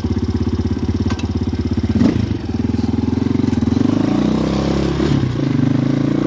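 RVM CZ 250T enduro motorcycle's 250 cc four-stroke engine running under way, its revs falling and rising with the throttle.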